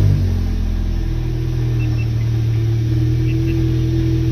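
Volkswagen MK7 GTI's 2.0-litre turbocharged four-cylinder engine idling steadily just after starting, its revs settling from the start-up flare in the first moment, heard inside the cabin.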